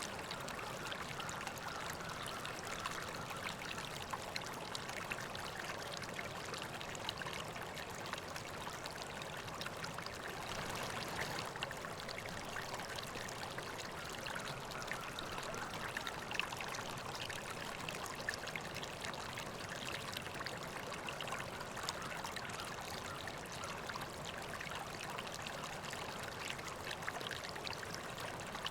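River water flowing steadily, a continuous trickling rush with many small splashes throughout.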